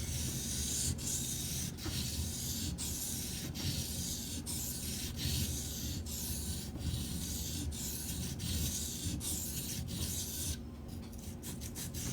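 Steel knife blade being stroked back and forth on a Shapton Pro 320-grit sharpening stone: a steady scraping hiss that breaks about once a second as each stroke turns, with a short pause near the end.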